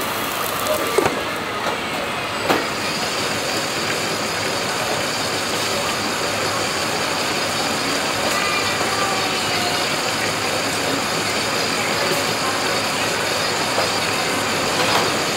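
Egg fried rice sizzling steadily in the hot pan of an automatic fried rice machine. A few sharp clicks sound about one and two and a half seconds in.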